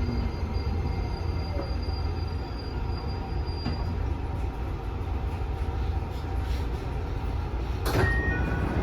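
Tsukuba Express electric train running, a steady low rumble of wheels on track, with one sharp knock near the end.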